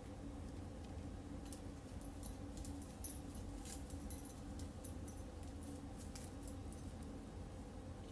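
Light, irregular clicking and tapping from a pet bird playing with its toys, over a steady low hum.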